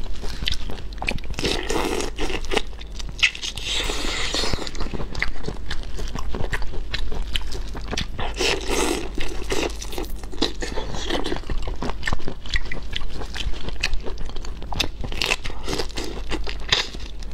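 Close-miked biting and chewing of whole marinated shrimp, with many sharp crunches and cracks as the shells break between the teeth.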